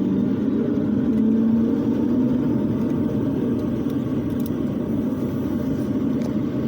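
Airliner's propeller engine running just after start-up: a steady drone with a few humming tones that waver slightly in pitch, heard from inside the cabin.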